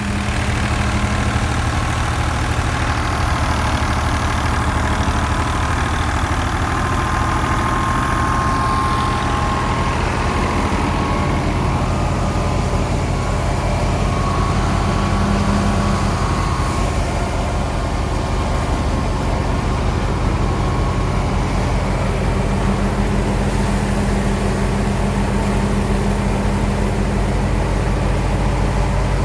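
Farm tractor's diesel engine running steadily at constant speed, a continuous low, even engine note that swells up in the first second.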